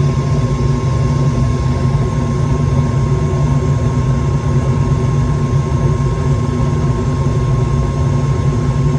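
Gas furnace running with its burners lit and the inducer motor on: a steady low rumble with a thin constant whine above it.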